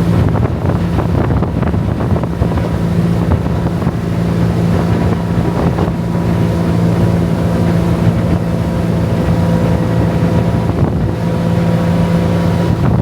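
Motorboat engine running at a steady speed, a constant drone, with wind noise on the microphone.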